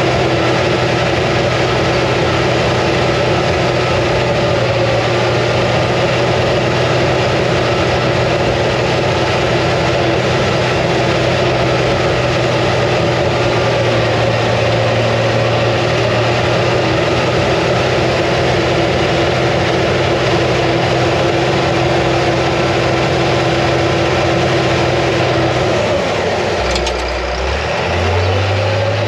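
International TD15C crawler dozer's DT466 diesel engine running steadily; near the end the engine note drops sharply and then picks back up.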